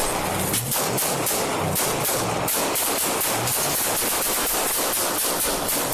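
Sustained volley of police gunfire: many shots fired in quick succession, several a second.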